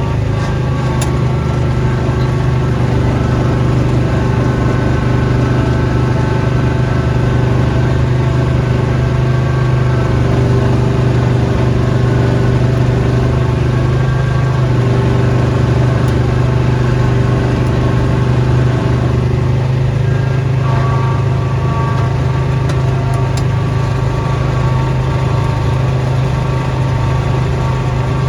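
Small gasoline engine of snowblowing equipment running steadily, with a slight change in its tone about twenty seconds in.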